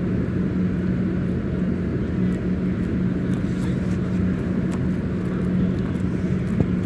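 Steady low rumble with a constant low hum and a few faint ticks, without any change.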